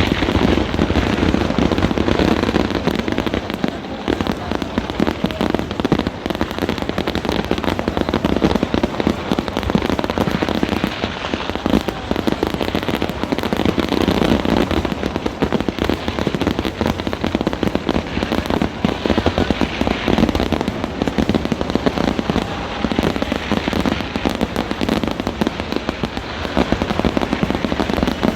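A dense fireworks barrage: firecrackers bursting in a rapid, unbroken stream of overlapping bangs.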